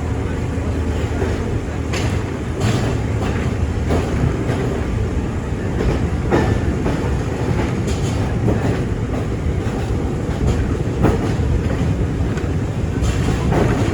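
Rail vehicle running along the track: a steady low rumble with irregular clicks and knocks from the wheels.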